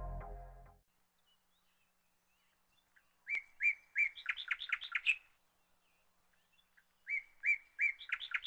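A songbird singing two phrases a couple of seconds apart, each about two seconds of clear notes repeated faster and faster. Background music fades out just before the first phrase.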